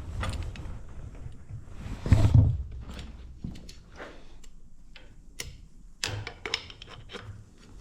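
Hand-work noises from test-fitting front-wheel axle spacers and parts: scattered clicks and knocks, with one heavier thump about two seconds in and a quick run of ticks near the end.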